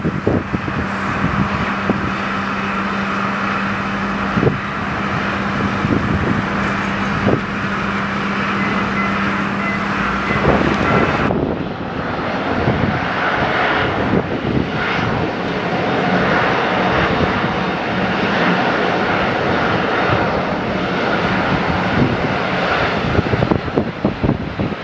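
Airliner engines running at an airport, with wind buffeting the microphone in irregular gusts. A steady hum under the engine noise stops about ten seconds in, and the sound changes abruptly a second later.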